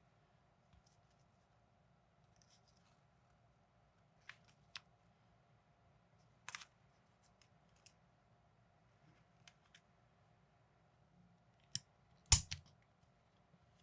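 Plastic building bricks clicking and snapping together in sparse, irregular single clicks, the loudest a quick cluster of snaps near the end.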